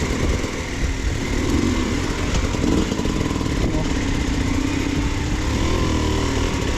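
Two-stroke enduro dirt bike engine running, its revs rising and falling unevenly as it is worked over rough ground.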